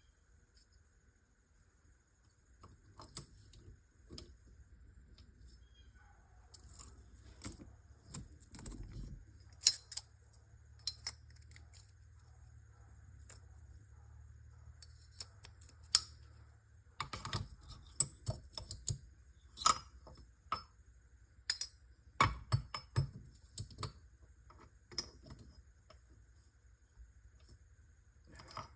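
Metal transmission parts, gears and shaft pieces, clinking and knocking against each other and the bench as they are taken apart by hand. The clicks come irregularly and are busiest and loudest in the second half.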